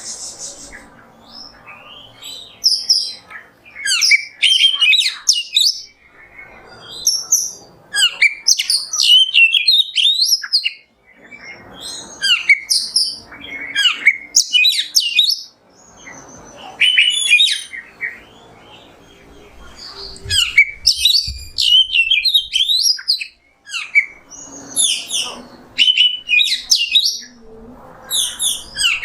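Oriental magpie-robin (kacer) singing: bursts of quick, varied whistled and chattering phrases a second or two long, with short pauses between them.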